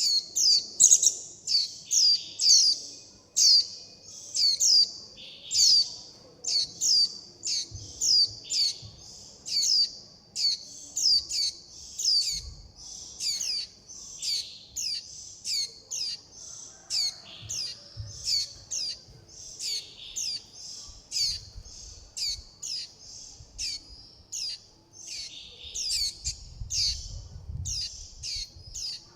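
Juvenile white-eye calling without pause: short, high-pitched, sharply falling chips, about two a second and sometimes paired, the begging and contact calls of a young bird calling for its parents and flock.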